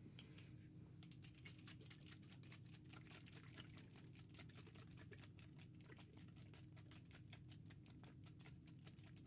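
Faint, close-miked barber grooming sounds: a quick run of soft clicks and scratches, several a second, starting about a second in.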